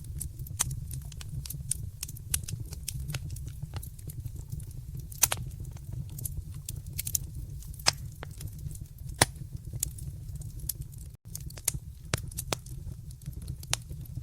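Wood fire in a fireplace crackling, with irregular sharp pops and snaps over a steady low rumble of the flames; a few louder pops stand out, and the sound drops out for an instant about eleven seconds in.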